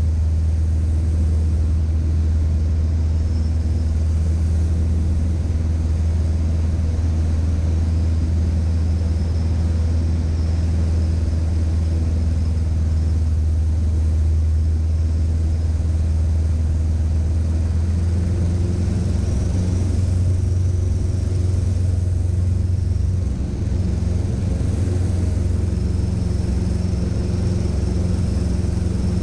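Cessna 150's four-cylinder engine and propeller running steadily at power, a loud low hum with a slight change in pitch about two-thirds of the way through.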